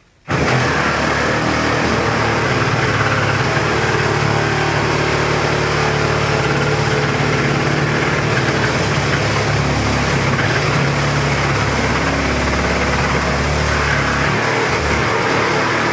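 Power saw cutting steadily through a refrigerator's metal cabinet, starting abruptly and running without a break.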